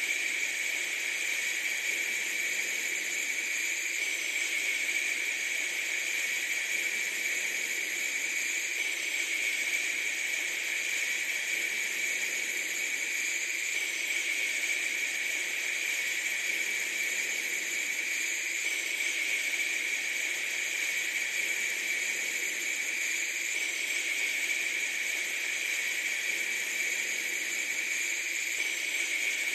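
Steady, unchanging hiss, with no breaks or events.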